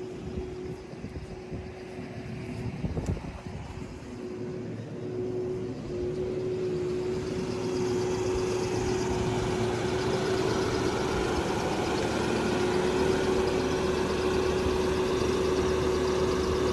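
An engine running steadily with a constant hum, growing louder and noisier about six seconds in.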